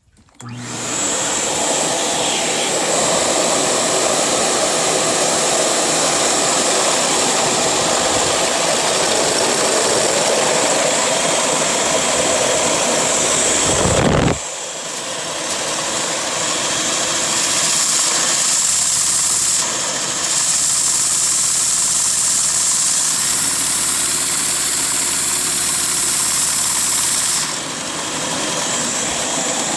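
LEGO pneumatic vacuum engine running on air, starting about half a second in and keeping up a steady, loud hiss and machine noise, with a brief dip about 14 seconds in and another near the end.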